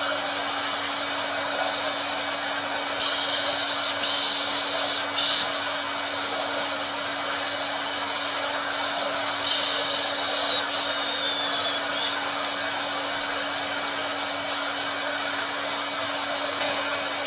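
Hair dryer running steadily, a continuous rush of air over a low motor hum. A brighter, higher hiss comes and goes three times, for a second or two each.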